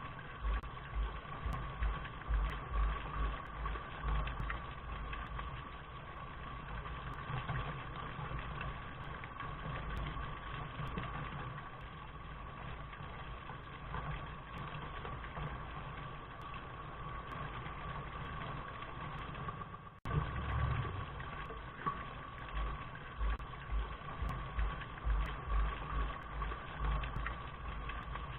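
Steady rain noise with an uneven low rumble beneath it, heard dull and band-limited. It drops out for an instant about twenty seconds in, then carries on.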